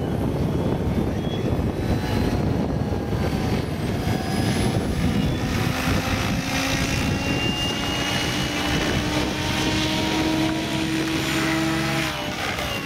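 SAB Goblin 700 electric RC helicopter flying, its rotor blades making a dense rumbling chop. From about halfway in a steady pitched whine from the motor and drive joins it, and it drops away near the end.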